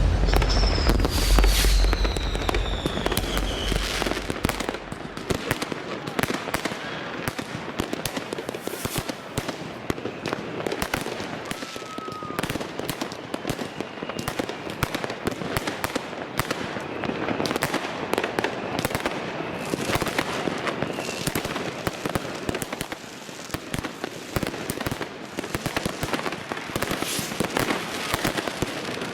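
Many fireworks and firecrackers going off together in a continuous barrage of bangs and crackling, with a whistle falling in pitch over the first few seconds.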